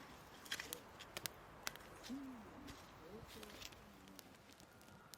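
Wood campfire crackling: scattered sharp pops, with faint low voices in the background.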